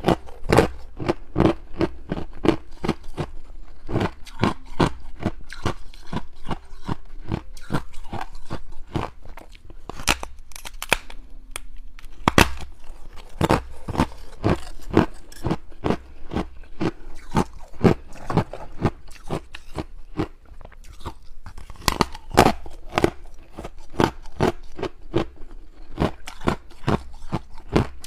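Close-up crunching of frozen ice rings being bitten and chewed: a dense, irregular run of sharp cracks, several a second.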